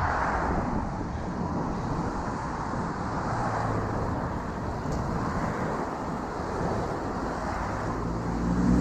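Steady road traffic noise heard from a bicycle on a city street, with a motor vehicle passing close and growing louder near the end.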